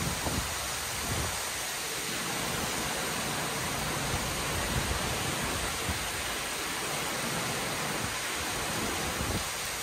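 Torrential rain pouring down in a steady, even hiss, with an uneven low rumble underneath.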